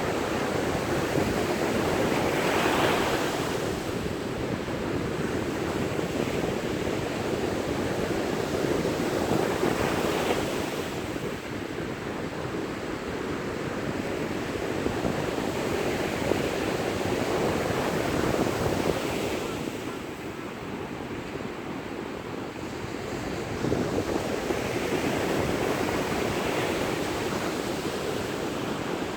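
Sea waves breaking and washing onto a beach, the surf rising and falling in slow surges about every seven seconds.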